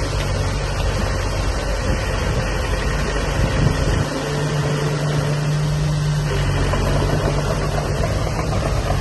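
Heavy earthmoving machine's diesel engine running steadily, its note changing about four seconds in.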